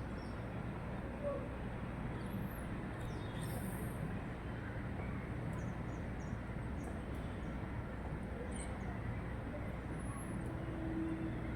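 Steady low background rumble like distant traffic, with a few faint, short, high-pitched bird chirps scattered through it.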